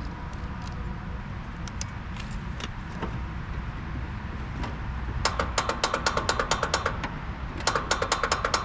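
Starter solenoid on a Sabre by John Deere lawn tractor clicking rapidly in two bursts of about a second and a half each as the key is turned, while the engine does not turn over: the owner suspects a bad solenoid.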